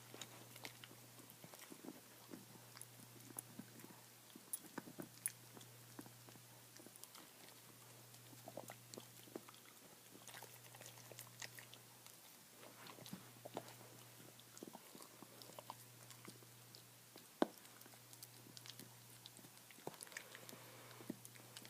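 A dog gnawing on a bone: faint, irregular crunching and clicking of teeth on bone, with one sharp crack late on.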